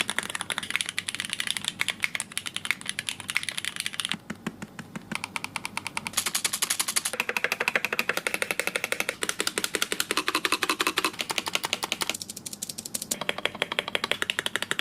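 Rapid computer keyboard typing: a fast, steady stream of key clicks, many per second.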